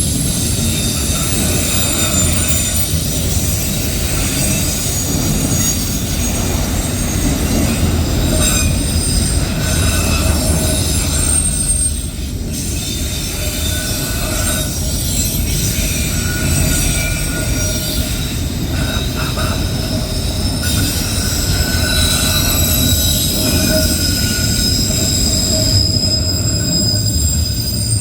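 Loaded autorack freight cars rolling past close by: a steady, loud rumble of steel wheels on rail, with high-pitched wheel squeal that comes and goes.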